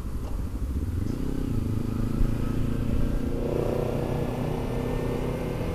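Motorcycle engine running under way, its pitch rising from about a second in as it accelerates, then holding steady, over a low rumble of wind and road noise.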